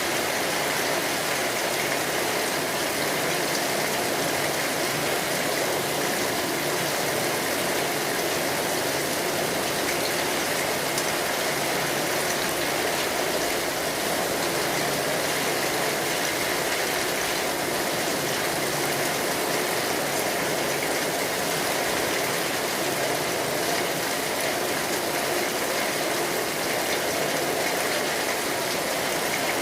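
Steady rain sound: a dense, even hiss of falling rain with no breaks or changes.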